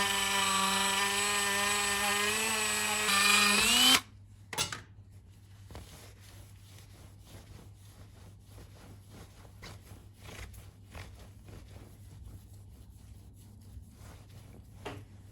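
Cordless Dremel 8220 rotary tool running at speed with a steady whine, rising slightly in pitch before it is switched off about four seconds in. A sharp click follows, then faint rubbing and ticking.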